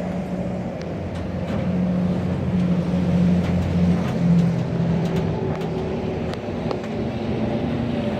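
A 1953 Chevrolet 210's engine running steadily. It grows louder for a couple of seconds in the middle, then eases back.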